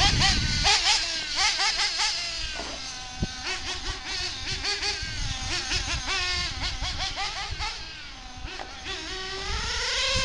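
Small nitro engines of RC buggies revving up and down in quick high-pitched swoops as the cars run around, growing fainter later on, then one engine's pitch climbs steadily near the end.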